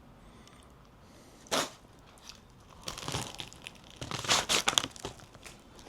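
Wrapper around a banh mi crinkling and rustling as it is handled and opened, in short bursts: one sharp rustle, then two longer spells of crackling.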